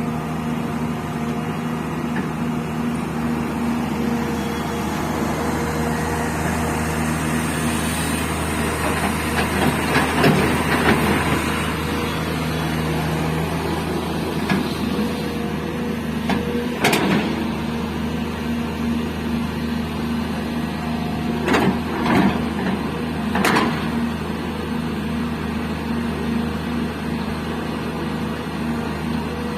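Hydraulic excavator's diesel engine running steadily, swelling for a couple of seconds about a third of the way in. A sharp knock comes a little past the middle, and three more follow close together a few seconds later.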